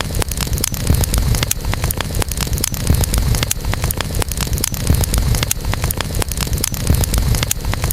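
Wood campfire crackling, with many sharp pops and snaps several times a second over a steady low rumble of flames and air.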